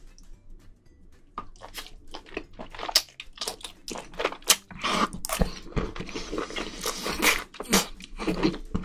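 Close-miked slurping and chewing of spicy braised octopus and bean sprouts: wet smacking with crunchy bites. It starts about a second and a half in and goes on densely to the end.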